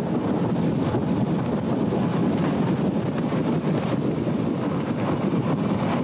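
Steady running noise of a moving passenger train heard from inside the coach: the even rumble and rush of the wheels on the rails and the car in motion.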